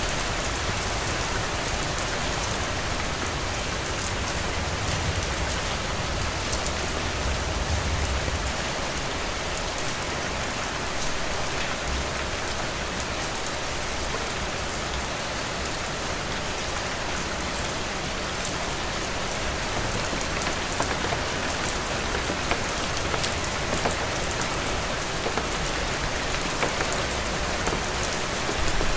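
Heavy rain falling steadily: a dense, even hiss with many individual drops ticking through it. A low rumble swells and fades about five to eight seconds in.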